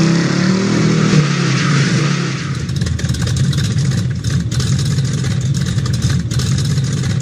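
Intro sound effect of a car engine revving with a tyre-spin hiss for about the first two and a half seconds, then the engine running on at a steady pitch.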